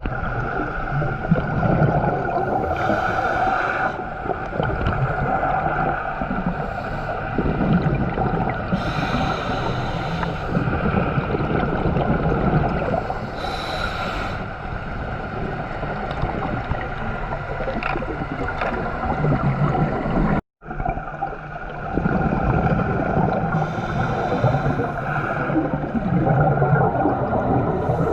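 Steady drone of a boat's motor running, mixed with rushing water and wind noise. It breaks off for an instant about twenty seconds in.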